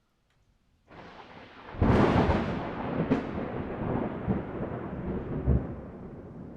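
Thunder: out of silence a low hiss starts about a second in, then a sharp thunderclap about two seconds in. A second smaller crack follows, and a long rolling rumble slowly fades.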